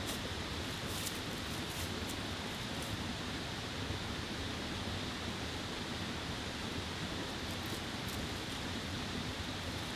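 Steady rush of a mountain stream, with a few faint clicks now and then.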